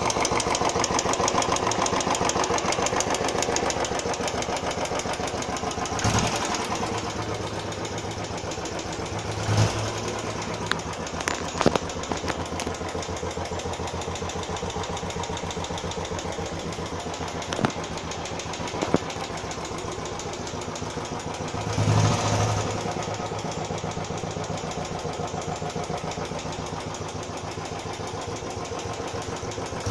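Royal Enfield Classic 350 single-cylinder engine idling with a steady, rapid tik tik ticking from the valve train: tappet noise that started after the bike's first service. A few sharper clicks and short swells in the engine sound come and go.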